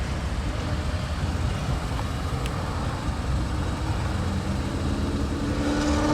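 Steady low rumble of a motor vehicle, with a slightly rising engine drone coming in near the end.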